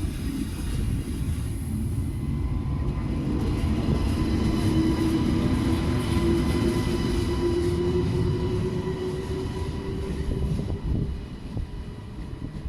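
TGV high-speed train pulling out of the station: a low rumble with a steady electric whine, swelling through the middle and easing off near the end.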